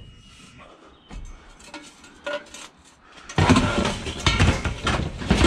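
Scrap metal clattering as a load of it is dumped: a few light clinks, then a loud, dense clatter of metal knocking on metal starting about three and a half seconds in.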